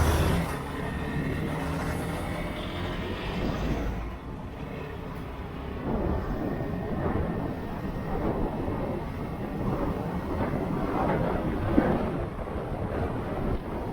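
Motorcycle under way: engine running beneath a steady rumble of wind and road noise.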